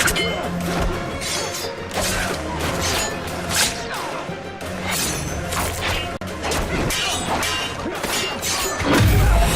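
Dramatic score music over fight sound effects: a quick run of hits and crashes, with a heavy low boom near the end.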